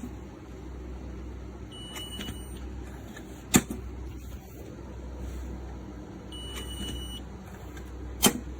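Quick-access handgun safe giving a short electronic beep, then a sharp click about a second and a half later as its latch releases, the pair coming twice about four seconds apart. A steady low hum lies underneath.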